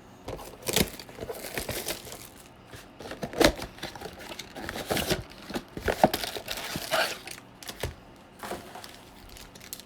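Plastic wrapper of a baseball card pack crinkling and tearing as it is opened by hand, with irregular crackles throughout.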